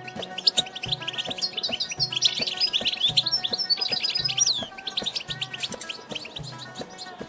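European goldfinch twittering: a rapid run of high chirps and trills, densest in the first half and thinning out after about five seconds. Underneath runs background music with a steady low beat.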